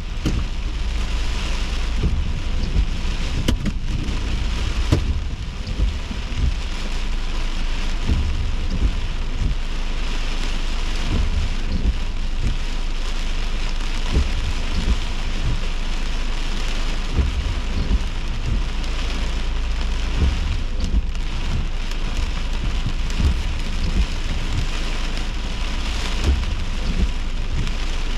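Heavy rain of a severe thunderstorm pouring steadily, swelling and easing in slow waves, over a deep continuous rumble.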